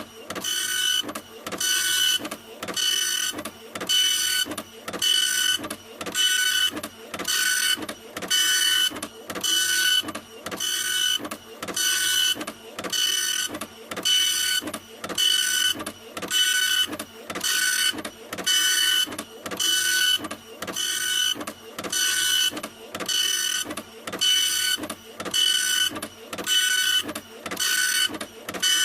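Printer running, printing in a steady rhythm of about one pass a second. Each pass carries a high whine with short pauses between.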